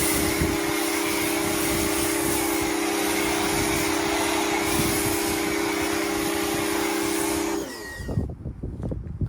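Nilfisk Core 140 electric pressure washer running with a steady motor hum over the hiss of the water jet. About three-quarters of the way in, it stops and its whine falls away as the motor spins down, leaving quieter scattered knocks.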